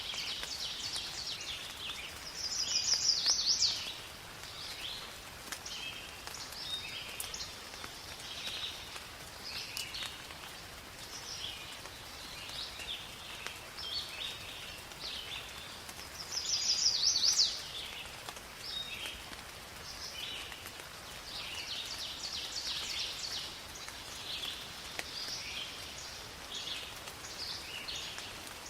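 Birds calling and singing over a steady hiss of rain in a forest. Twice, about 3 seconds in and again about 17 seconds in, a loud rapid trill about a second long stands out above the other calls.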